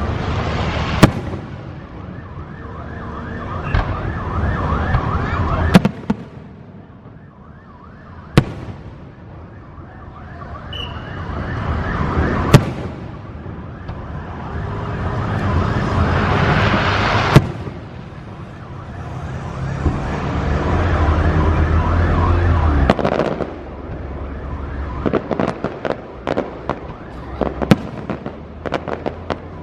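Aerial fireworks: swells of whistling hiss build up several times and five sharp bangs of bursting shells go off over the first eighteen seconds, then a quick run of crackling pops near the end.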